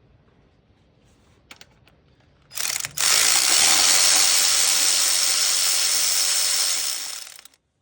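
Power ratchet on a bolt of the engine: a short blip about two and a half seconds in, then a steady whirring ratchet run of about four and a half seconds that stops just before the end.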